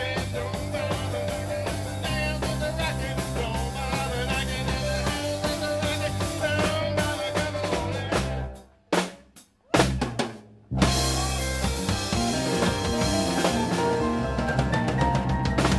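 Rock band playing live with a drum kit and bass guitar to the fore. About eight seconds in, the band drops out for a stop-time break with a few sharp hits, then comes back in at full volume.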